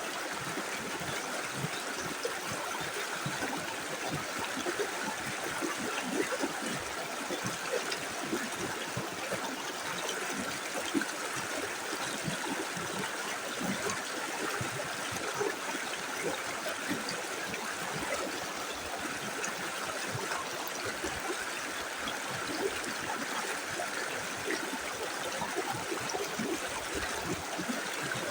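A small river flowing steadily, with frequent small gurgles running through the steady rush of water.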